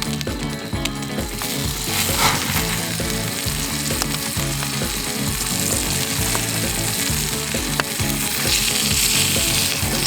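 Food frying and sizzling steadily in a pan, with occasional stirring, over quiet background music.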